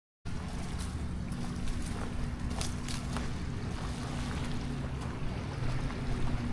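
Small waves washing on a river beach, with wind noise on the microphone and a low steady drone underneath. The sound cuts in suddenly just after the start.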